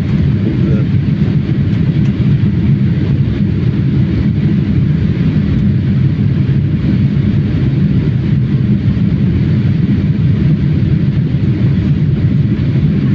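Steady low rumble of engine and airflow noise heard inside an airliner cabin as it descends to land.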